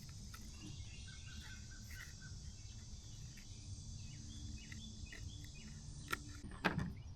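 Quiet background: a low steady hum with faint, short bird-like chirps, and two sharp clicks near the end.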